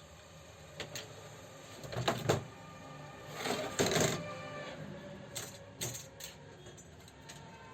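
Small metal parts and tools clinking and rattling in a few short bursts, the loudest about three and a half to four seconds in, over faint background music.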